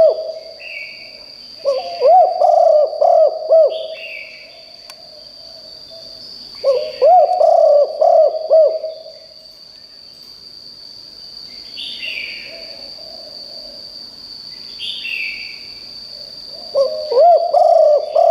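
Spotted dove cooing: a phrase of several low, rounded coos, repeated three times with pauses between. Short chirps of other birds and a steady high whine run underneath.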